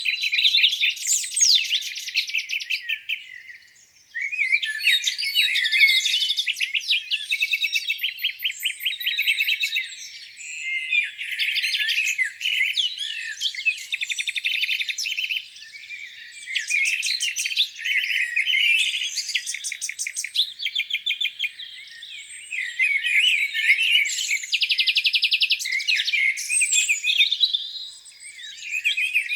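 Several songbirds singing at once in a spring dawn chorus: overlapping chirps, fast trills and rapid runs of repeated notes, with a brief lull about four seconds in.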